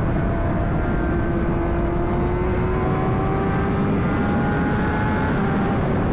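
Honda CBR600RR inline-four engine running under heavy wind rumble, its note creeping slowly higher as the bike gains speed, then fading about five seconds in.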